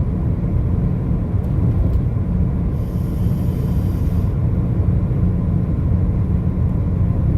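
Steady low rumble of a vehicle driving, with road and engine noise. A faint high-pitched whine joins it for about a second and a half near the middle.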